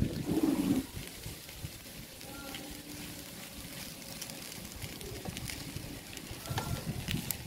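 Fried rice and egg sizzling in a nonstick wok while a spatula stirs and scrapes through it, with small clicks of the spatula against the pan.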